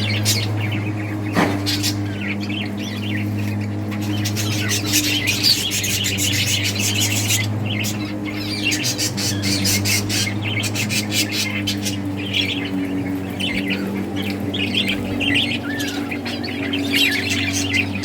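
A group of budgerigars chirping and chattering continuously, many calls overlapping, with occasional harsher squawks. A steady low hum runs underneath.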